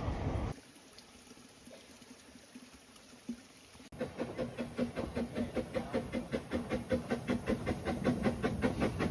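Narrow-gauge steam train running, heard as a quick, even beat of about five a second. It starts suddenly about four seconds in, after a few quiet seconds.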